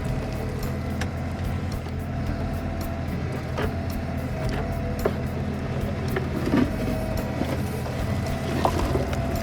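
Kioti CK3510SE compact tractor's diesel engine running steadily while it powers the KB2475 backhoe digging a ditch. Occasional knocks and clanks are heard, a few seconds apart.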